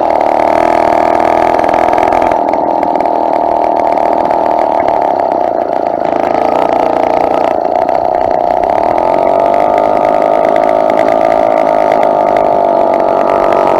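Small 2-stroke motorized bicycle engine running steadily at an even speed.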